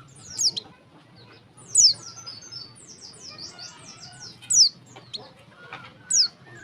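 Female white-eye (pleci) calling: a few loud, sharp, high notes that sweep steeply downward, with a quick run of shorter high chirps between them. This is the call of a female in breeding condition, used to provoke male white-eyes into singing.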